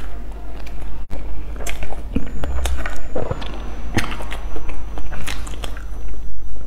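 Close-up eating sounds: soft bread and sponge cake bitten and chewed, with scattered sharp wet mouth clicks over a steady low hum.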